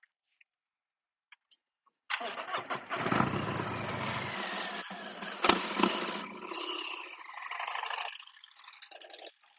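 Motorcycle engine running. It comes in suddenly about two seconds in, has a sharp knock a little past the middle, and dies down near the end.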